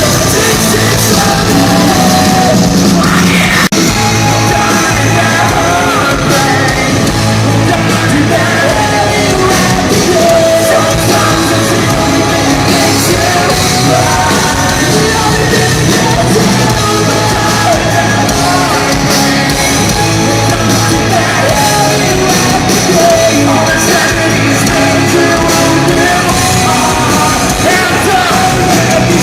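Loud rock music with yelled and sung vocals, running steadily throughout.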